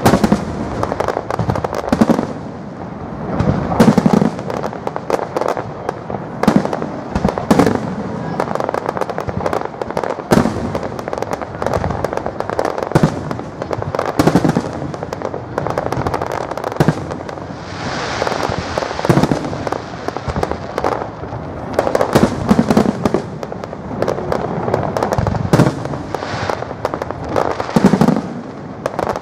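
Fireworks display: aerial shell bursts going off one after another, several strong bangs among a near-continuous run of smaller reports. About two-thirds of the way through there is a short patch of hissing crackle.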